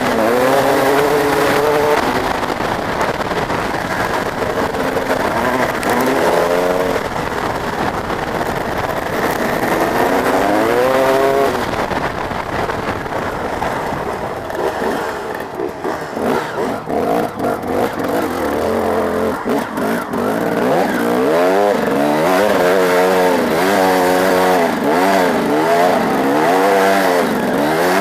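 Motocross bike engines revving hard, the pitch climbing and dropping again and again with the throttle and gear changes. The engines ease off and go choppy about halfway through, then rev in quick repeated surges near the end.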